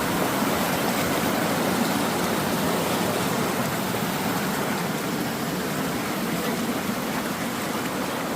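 Mountain valley stream flowing: a steady, unbroken wash of running water.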